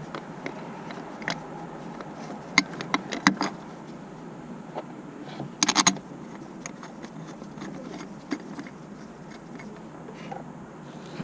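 Metal hand tools clicking and clinking in irregular sharp ticks, with a short rattling clatter about six seconds in.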